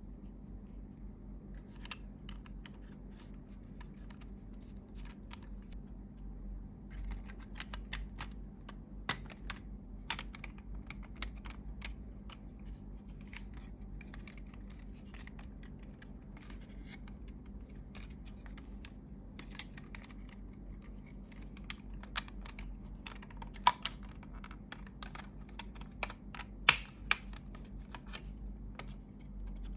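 Irregular light clicks, taps and scratching from small parts and tools being handled, with a few sharper knocks near the end, over a faint steady low hum.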